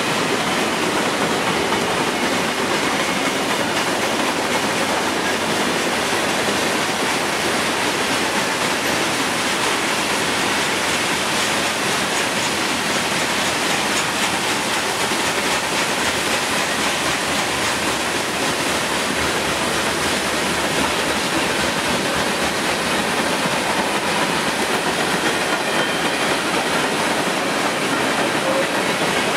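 Freight train cars (covered hoppers, tank cars and gondolas) rolling past at a steady speed: a continuous, even noise of steel wheels running on the rails.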